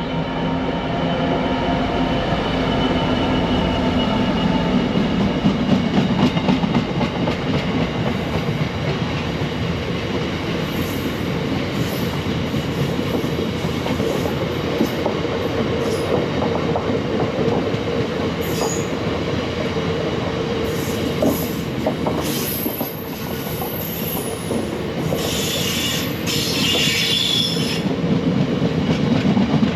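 A train running through the station: steady rumble with repeated clicks of wheels over the rails, and a high-pitched metallic squeal from the wheels from about three-quarters of the way through.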